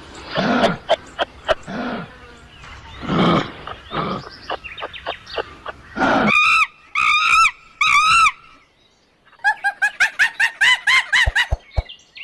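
Farm animal calls: low, rough calls for the first half, then three loud arched squawks and, after a brief pause, a fast run of clucking from domestic fowl.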